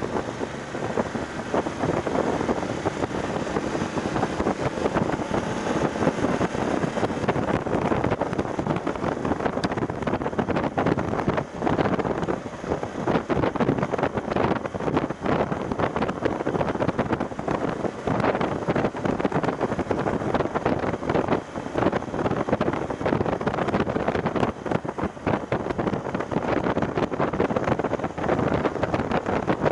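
Heavy wind buffeting on the microphone of a motorcycle-mounted action camera while riding a BMW F750GS, a dense, constantly fluttering rush that covers the bike's own sound.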